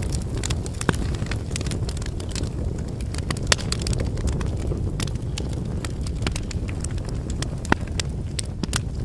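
Wood fire burning: a steady low rush of flames with frequent crackles and pops from the burning firewood, a few sharper snaps standing out.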